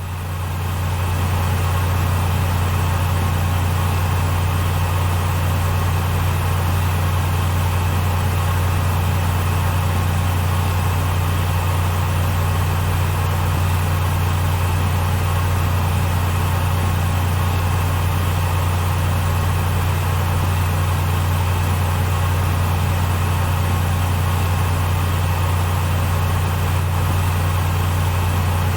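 Gaming PC cooling fans running steadily: a strong low hum under an even airy whoosh. It swells up over the first second or two, then holds unchanged.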